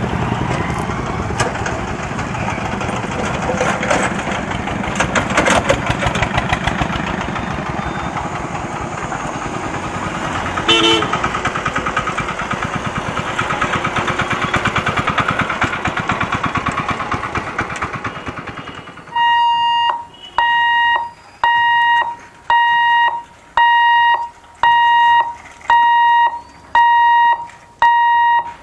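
A three-phase EMU electric train runs directly over a camera on the track: loud steady rumble and rapid wheel clatter, with a short tone sounding once near the middle. The train noise fades away, and a level-crossing electronic warning alarm starts beeping, a loud pitched beep about once a second.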